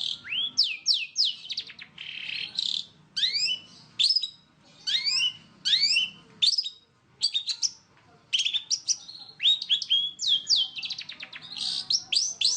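Long-tailed shrike (cendet) singing a fast, tightly packed run of sharp sweeping whistles and chirps. The notes come in quick bursts broken by short pauses.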